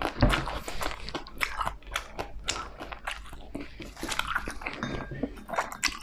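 A person chewing crunchy food close to the microphone: a quick, uneven run of crisp crunches and mouth clicks.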